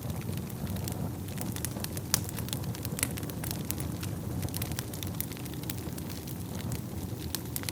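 Wood fire burning in a fireplace: a steady low rumble of flames with frequent irregular sharp crackles and pops, one louder pop about two seconds in.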